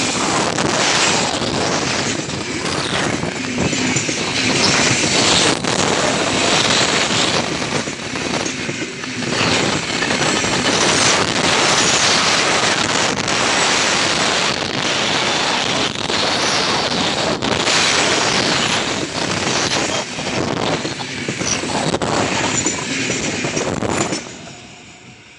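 Open freight wagons rolling past at close range: a steady rumble and clatter of wheels on rails, with sharp clacks as the wheels cross rail joints. The sound drops away suddenly near the end as the last wagon passes.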